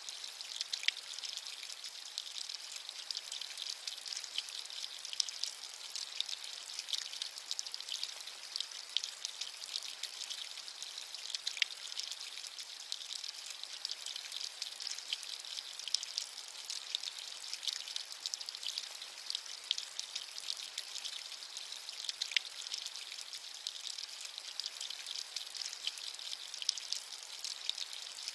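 Steady rain, a dense patter of many small drops with a high, even hiss and no thunder.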